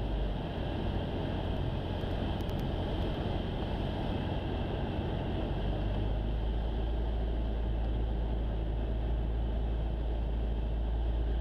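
Jabiru light aircraft's engine and propeller droning steadily, heard inside the cockpit on approach. The deepest part of the drone thins out about half a second in and comes back strong by about six seconds in.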